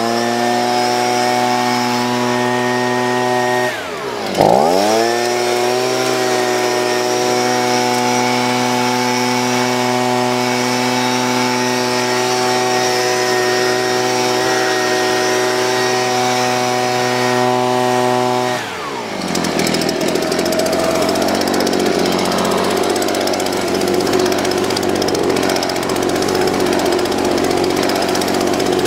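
Small engine-powered blower revved up to full speed, briefly let off and revved up again about four seconds in, held steady, then throttled back about nineteen seconds in to a rougher, lower running sound.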